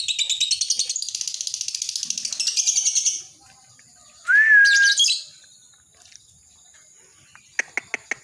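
Lovebird singing its long 'ngekek' chatter: a rapid, dense, high trill that stops about three seconds in. About a second later comes a short loud call, and near the end a run of quick sharp chips.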